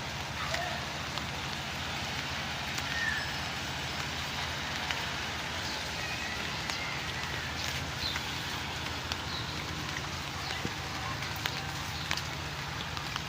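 Steady rain falling, with scattered sharp drip ticks of drops landing on nearby surfaces.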